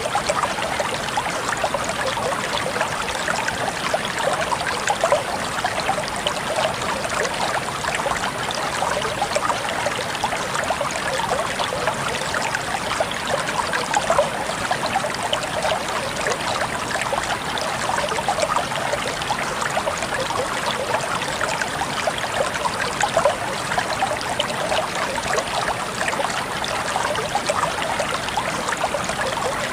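Water flowing and trickling steadily, a constant babbling with small splashy flickers.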